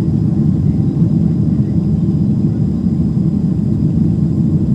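Steady low rumble of engine and airflow noise inside the cabin of a Boeing 767-300ER, with a faint high steady whine over it.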